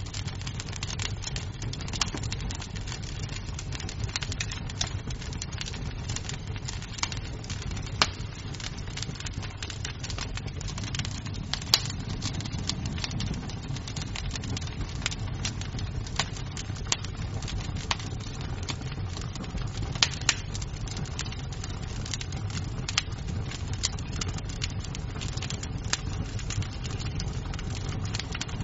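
Wood fire crackling in a fireplace: a steady low rumble of the flames with irregular sharp pops and snaps of burning wood, a few louder ones scattered through.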